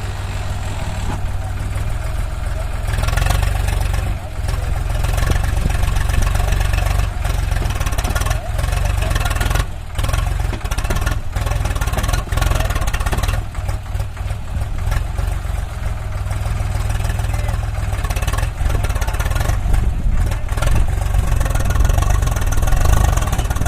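Heavy diesel engine running steadily with a deep low rumble, getting a little louder about three seconds in.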